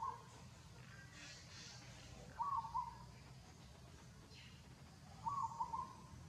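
A bird giving a short hooting call of a few quick notes, twice, about three seconds apart. Fainter high chirps come about a second in, over a steady low hum.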